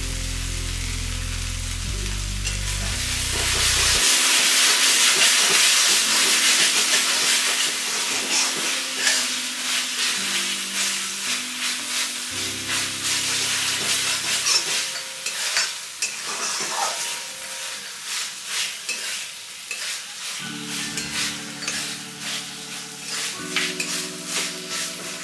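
Onion-tomato masala paste sizzling and frying in a metal kadai. The sizzle swells about four seconds in, and a flat spatula then stirs and scrapes the paste against the pan in many short, irregular strokes.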